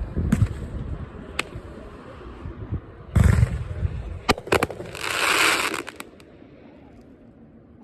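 Closing shots of a 57-shot 500-gram consumer firework cake: deep booms of shells firing and bursting, sharp cracks, then about a second of hissing crackle around five seconds in, after which the firing stops.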